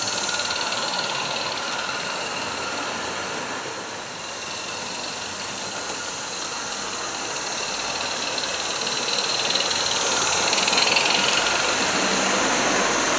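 A 16mm-scale live-steam locomotive running on garden railway track, with a steady mechanical rattle and hiss. It grows louder and peaks about ten seconds in.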